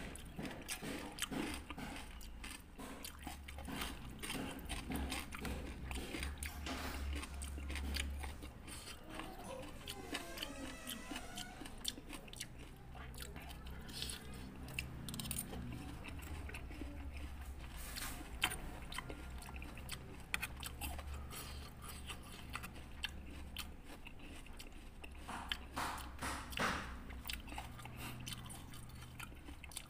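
Close-up chewing and crunching of raw fruit pieces of rujak, with bites and short sharp clicks of a metal spoon against a stone mortar bowl scattered throughout.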